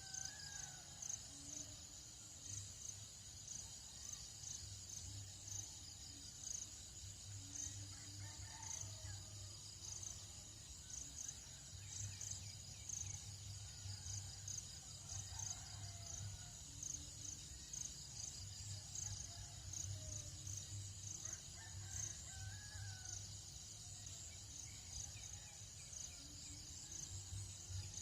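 Faint tropical dawn chorus: a steady, pulsing high trill of insects, with distant roosters crowing and scattered bird calls.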